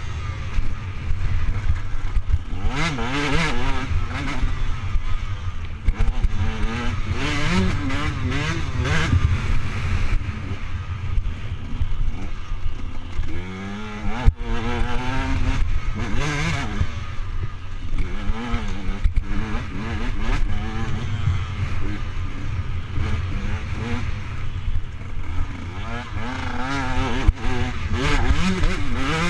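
Motocross bike engine revving up and down again and again, its pitch rising and falling with throttle and gear changes, over a heavy low rumble.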